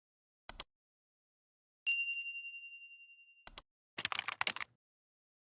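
A single bright metallic ding about two seconds in, ringing out and fading over about a second and a half. Soft clicks come before it and after it, and a short clatter of clicks follows near the end.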